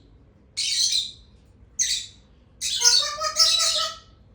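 Indian ringneck parrot giving harsh, high screeching calls: a short one about half a second in, another near two seconds, and a longer screech near the end.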